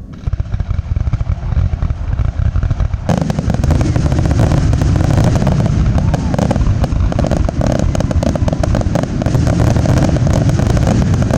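Fireworks display: a rapid, continuous barrage of bangs and crackling that grows denser and louder about three seconds in.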